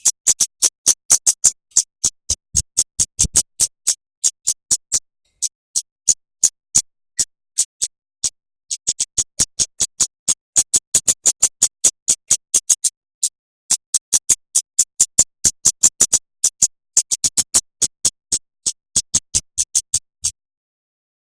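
Songbird master recording: a rapid, dense run of sharp, high clicking notes, several a second with short pauses between runs, stopping about a second before the end.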